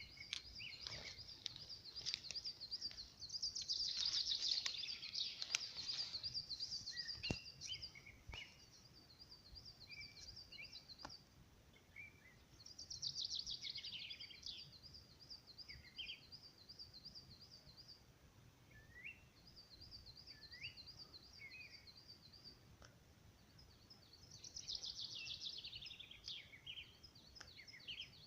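Several songbirds singing: long runs of high, thin repeated notes, a falling song phrase three times, and short scattered chirps, with a few faint clicks.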